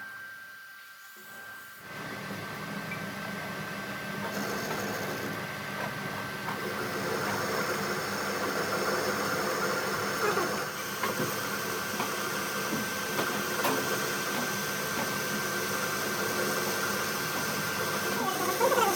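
Steady hissing machine noise that starts about two seconds in and carries a constant high whine.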